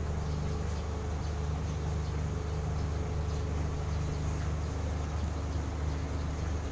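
A steady low machine hum runs throughout, with faint short bird chirps scattered over it.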